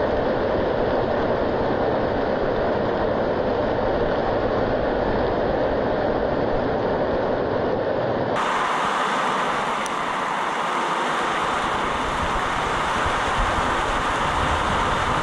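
Heavy downpour during a thunderstorm: a dense, steady roar of rain with a low rumble underneath. About eight seconds in the sound abruptly turns brighter and hissier, with less rumble.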